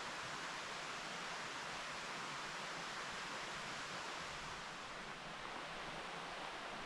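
Mountain stream flowing, a steady unbroken rush of water.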